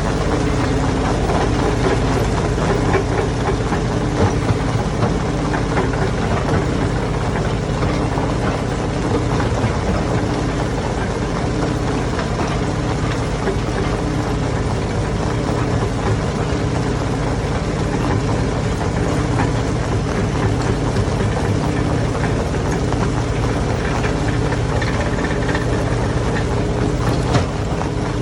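Hammer stone crusher running: a steady, heavy machine drone with a dense rattle of small knocks and clatter throughout.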